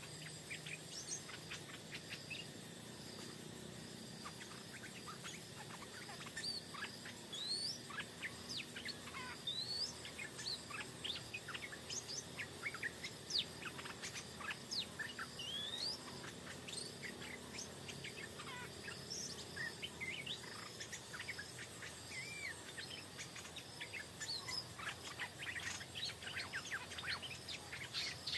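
Stripe-throated bulbuls giving short, rising, whistled chirps and calls, thickest in the second half, over a steady high insect trill.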